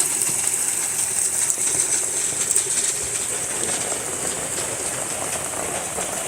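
Steady rain falling on plants and ground: an even hiss of many small drop impacts.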